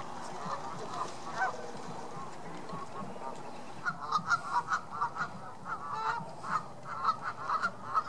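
Birds calling: a continuous chatter of calls, then from about halfway a run of loud calls repeated about three times a second.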